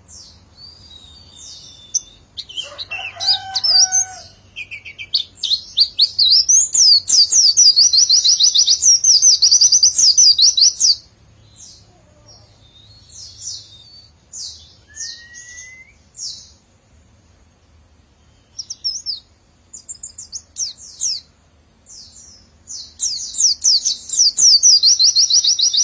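White-eye (pleci) singing its long rapid song: fast runs of high, sharply repeated notes. There is an unbroken run of about six seconds, then scattered short phrases, then another long run near the end.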